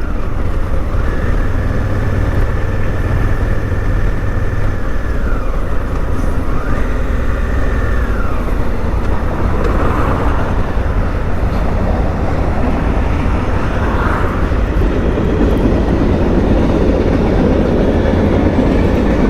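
Honda Africa Twin motorcycle being ridden: a steady rumble of engine and road noise, with a faint high whine that falls and rises again a few times in the first half.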